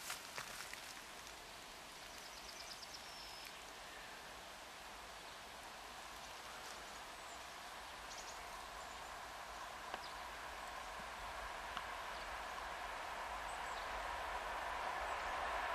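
VL40U electric locomotive hauling a passenger train, approaching along the line: a steady rushing noise of the train that grows gradually louder as it nears.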